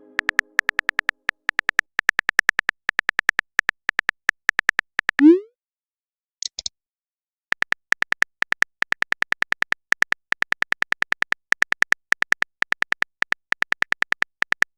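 Smartphone keyboard typing clicks: a rapid, uneven run of short ticks, as in a messenger chat. About five seconds in, a short rising swoop sounds, typical of a message-sent tone; a faint high blip follows, and then the typing clicks resume.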